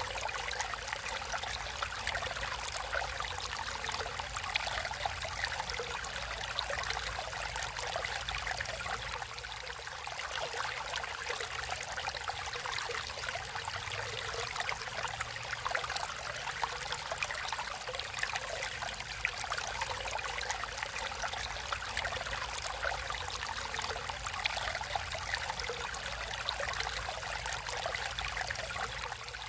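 Natural flowing water running steadily, a continuous rushing hiss with fine bubbling and splashing throughout.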